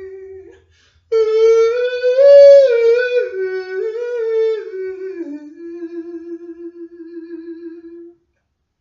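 A single high voice singing or humming a wordless melody in long held notes. It breaks off briefly near the start, climbs and falls in steps, and ends on a long steady note that stops shortly before the end.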